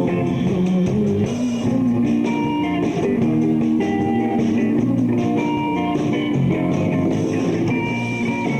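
Rock band playing live, an instrumental guitar-led passage over bass and drums with no singing.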